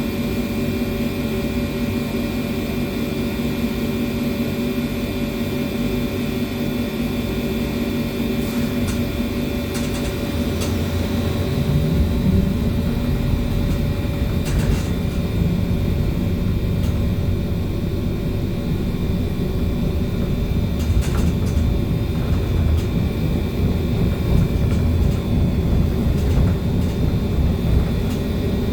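A BKM-321 trolleybus in motion, heard from inside: the steady hum and whine of its electric traction drive over road rumble. About twelve seconds in, a tone rises and the rumble grows louder as the trolleybus picks up speed, with a few brief knocks and rattles here and there.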